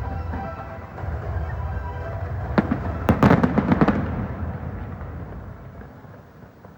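Fireworks going off: a steady low rumble of distant bursts, one sharp bang about two and a half seconds in, then a quick cluster of crackling bangs just after three seconds. The noise then dies away.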